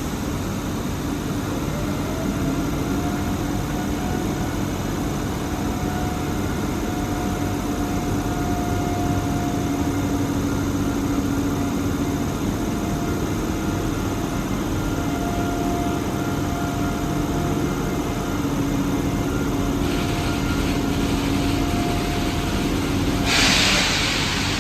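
Electric train at a station platform running with a steady hum and whining tones, one of which rises briefly about two seconds in. A short loud hiss of air comes near the end.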